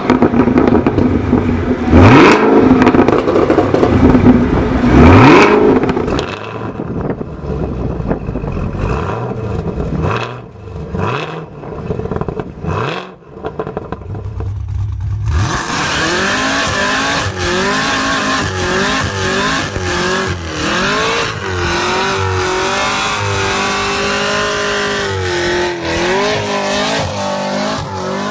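Chevrolet Camaro ZL1's supercharged V8 exhaust, in several clips. First come loud, sharp revs, then quieter separate throttle blips with pauses. After a cut about halfway through, the engine runs steadily with its pitch rising and falling.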